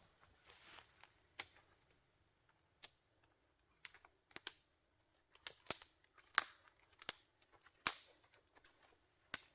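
Small dry sticks snapping: a dozen or so sharp, irregular cracks, louder and closer together in the second half.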